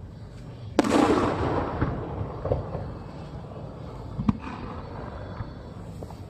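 Fireworks: one loud aerial shell burst about a second in, trailing off in a long rolling echo, followed by a few sharper cracks later on.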